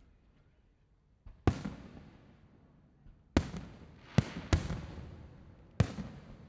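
Aerial fireworks shells bursting: five sharp booms, each trailing off in a long fading rumble, with two coming close together a little past the middle.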